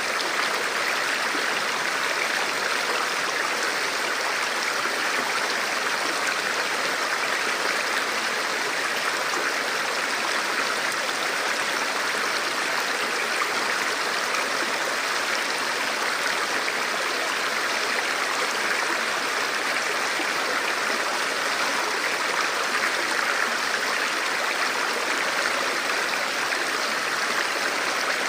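Forest river or stream flowing over rocks: a steady, even rush of water with no change throughout.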